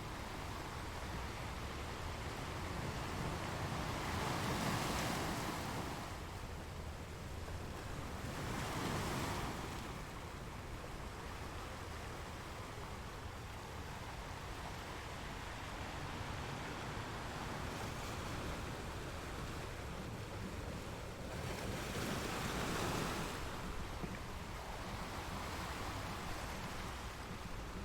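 Sea waves breaking against rocks: a steady wash of surf with three louder surges, about four, nine and twenty-two seconds in, and a low rumble of wind on the microphone underneath.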